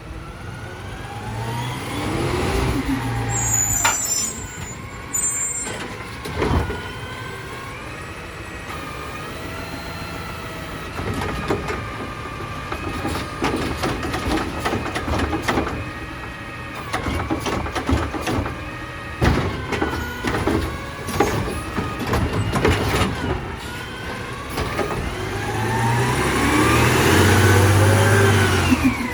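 Automated side-loader garbage truck at work: its diesel engine revs up around three seconds in and again near the end, with a steady hydraulic whine between. Several sharp knocks and clatters come through as the arm handles a cart.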